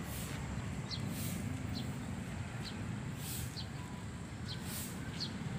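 Small bird chirping in the tree canopy: short, high, falling chirps repeated about once a second, over a steady low rumble of outdoor background noise.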